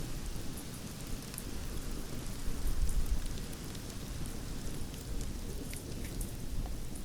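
Campfire burning: a steady low rumble of the flames with scattered sharp crackles and pops from the wood.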